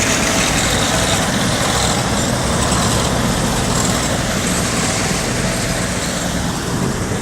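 Vehicle engines running steadily in a low rumble, under a constant rush of rain and wind noise.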